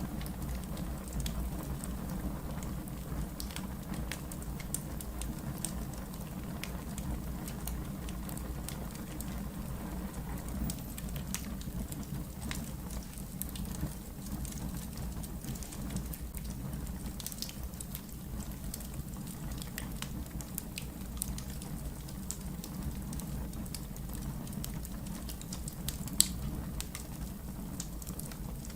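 Wood fire burning in a fireplace: a steady low rumble of flames with scattered crackles and pops, one sharper pop near the end.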